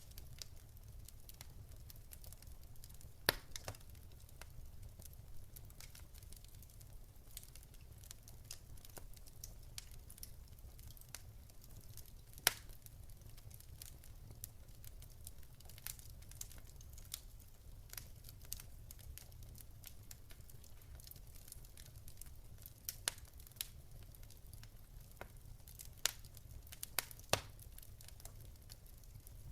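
Fire crackling, with irregular sharp pops, the loudest about three seconds in and about twelve seconds in, and a cluster near the end, over a steady low rumble.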